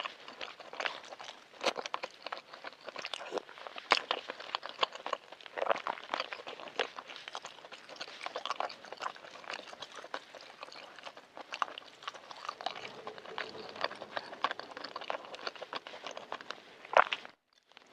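Close-miked chewing of balut (fertilised duck egg): a steady run of wet mouth smacks, clicks and small crunches at an irregular pace, cut by a brief gap of silence near the end.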